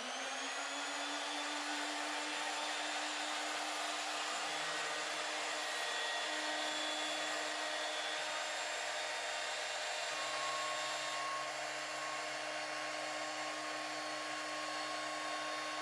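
Flexible-shaft rotary tool spinning a 1.5-inch cutting wheel through brass sheet, a steady high-pitched whine with hiss. It rises in pitch during the first second as it spins up, then holds, with the lower hum shifting slightly a few times.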